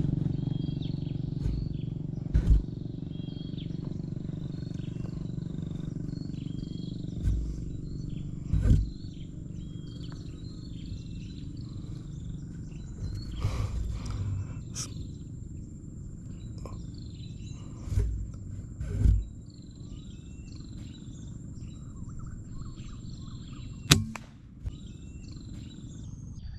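Outdoor ambience: small birds chirping over and over in short high calls, over a steady high-pitched insect drone and a low rumble of wind or handling. A few dull thumps are heard, and one sharp crack comes near the end.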